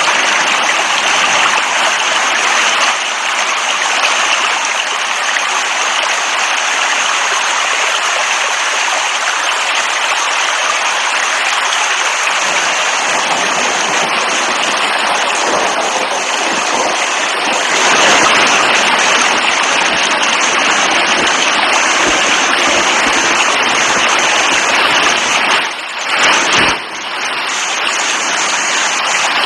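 Heavy rain falling in a steady, dense hiss, with two brief dips near the end.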